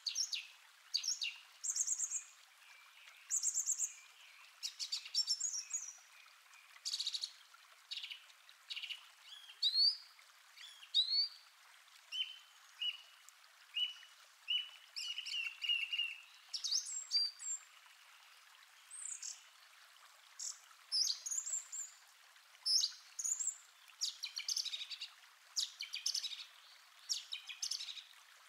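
Birdsong: many short chirps, whistled rising and falling notes and brief trills, one after another with short gaps, sounding thin with no low sounds at all.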